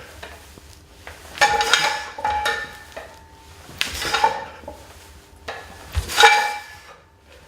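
Metal strength-training weights clanking and ringing three times, roughly two seconds apart. The last clank comes with a low thud.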